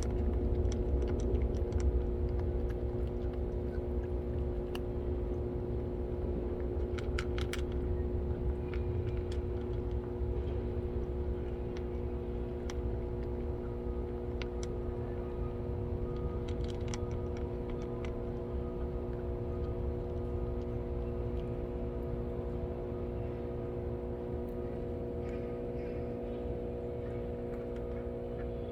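Steady machine hum: a low rumble with several held tones, with scattered faint clicks, a few of them in quick clusters.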